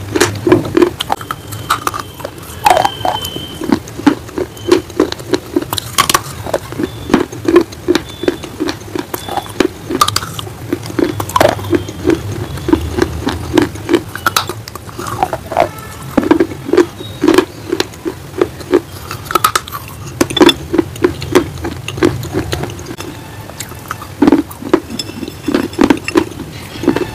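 Close-miked crunching and chewing of baked edible clay or shale stone, a steady rhythm of bites, two or three a second, with sharp crackling clicks and brief pauses.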